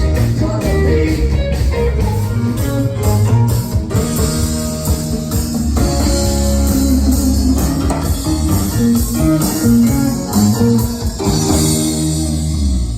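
Live rock band playing an instrumental passage: guitar over bass and drum kit. The song cuts off right at the end.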